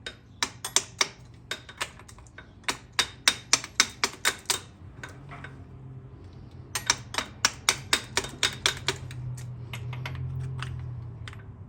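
Rapid light hammer taps on a nylon steering stem bushing as it is driven into the steering tube. The taps come about four or five a second in two runs, with a pause of about two seconds in the middle.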